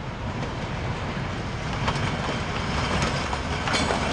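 Nilgiri Mountain Railway narrow-gauge passenger train rolling past, a steady rumble that grows slowly louder, with sharp wheel clicks over the rail joints about two seconds in and near the end.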